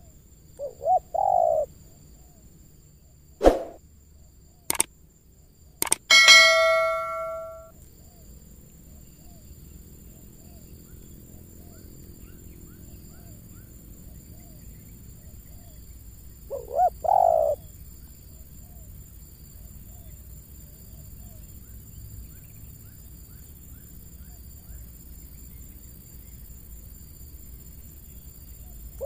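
Spotted dove cooing, a short phrase about a second in and another near the middle. Two sharp knocks and a ringing metallic clang come in between, with faint chirping of small birds.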